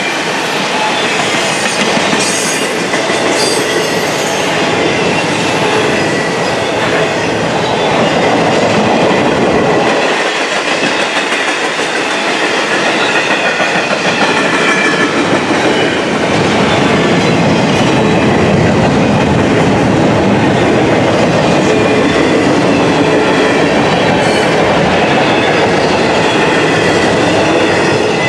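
Intermodal container cars of a freight train rolling past, a steady loud noise of steel wheels on rail. Faint thin squeals from the wheels ride over it, the highest near the start.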